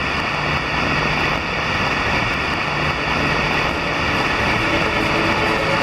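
Heavy rain pouring, a dense steady hiss. Violin music begins faintly near the end.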